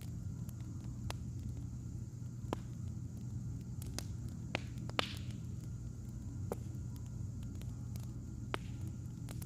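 Burning firewood crackling: scattered sharp pops over a steady low hum, the loudest pop about halfway through.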